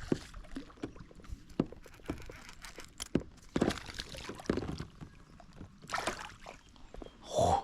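Water splashing and sloshing from a hooked largemouth bass fighting at the surface beside a kayak, with scattered knocks and clicks against the boat and tackle.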